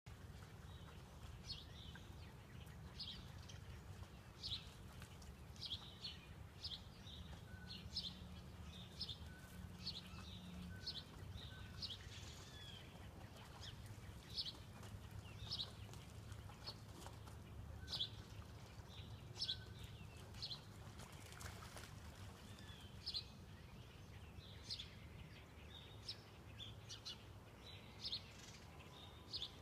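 Faint birds chirping: short, high chirps about once every second or so, over a steady low background hum.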